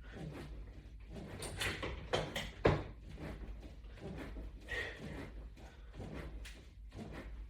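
Scattered knocks and clatter with rustling in between, the sharpest knock about two and a half seconds in, over a steady low hum.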